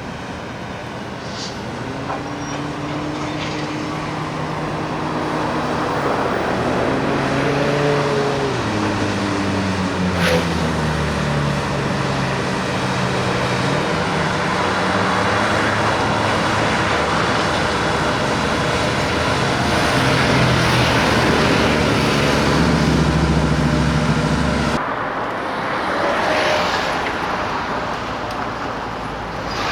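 Railway locomotive running and moving, its drive note gliding up and down in pitch, with a sharp click about ten seconds in and an abrupt change in the sound near the end.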